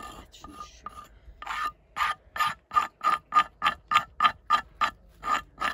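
Piece of glass scraped in quick, short strokes along the edge of a thick, freshly sawn wooden board, shaving it smooth so it won't splinter. The rasping comes about three strokes a second, faint at first and then louder.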